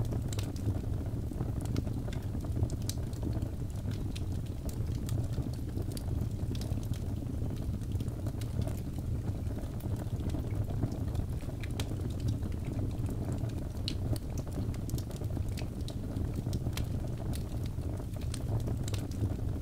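Wood fire burning in a fireplace, with a steady low rumble of flames and frequent irregular sharp crackles and pops from the burning logs.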